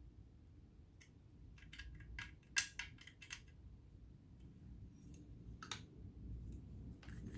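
Scattered small metallic clicks and taps of tools and parts being handled on a vintage all-metal sewing machine, bunched in the first half with the sharpest click about two and a half seconds in, then a few more spread out near the end.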